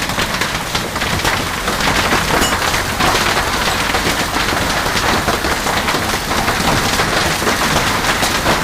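Heavy rain pelting down on a hard surface: a dense, steady hiss full of small sharp taps.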